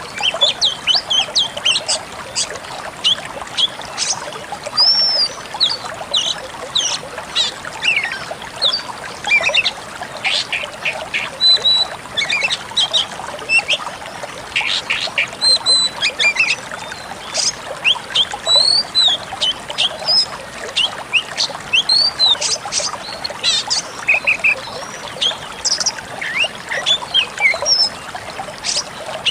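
Pied bushchat (decu kembang) singing: a dense, unbroken run of short high chirps and brief whistles over a steady hiss.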